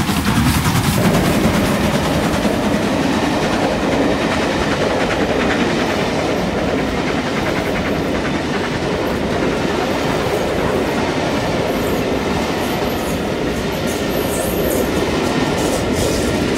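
Passenger train headed by a steam locomotive passing at speed close by: the locomotive goes by at the start, then a steady rumble of the coaches' wheels running over the rails.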